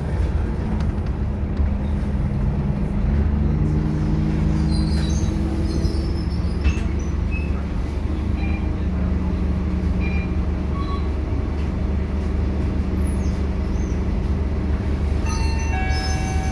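Scania K230UB city bus's diesel engine running under way with a steady heavy low rumble; its note shifts and rises for a couple of seconds about four seconds in. Several steady high tones, like a chime or beeping, come in near the end.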